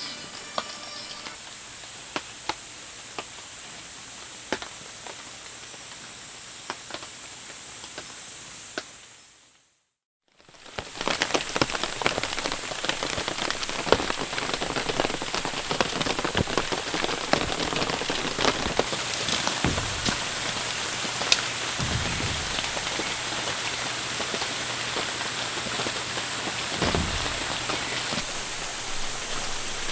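Heavy rain falling, with many separate drops striking close by. It fades out about a third of the way in and fades back in louder, with denser drop hits.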